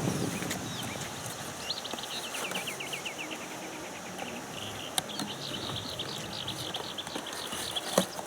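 A small bird singing fast trills of short, repeated down-slurred notes, in two runs, over light outdoor background noise. Two sharp clicks, one midway and one near the end.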